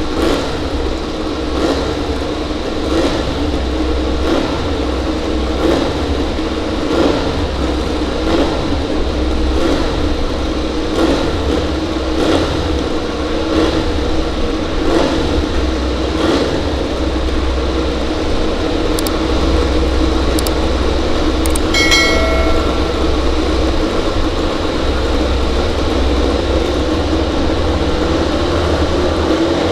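MotoGP racing motorcycle engines running in a steady drone, with no big rises or falls in pitch. A short pitched beep sounds about two-thirds of the way through.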